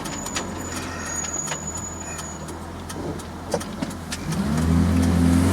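Truck engine idling with scattered light clicks; about four seconds in it revs up, rising in pitch and getting louder.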